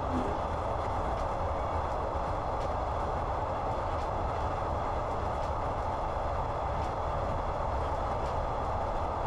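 Steady running noise and low rumble of a moving passenger train, heard from inside the carriage, with faint clicks from the wheels on the rails now and then.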